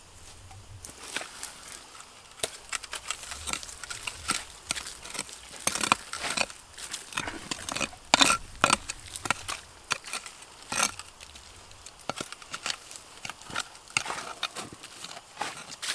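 Footsteps through grass and undergrowth: irregular crunching and crackling steps, loudest a little past the middle.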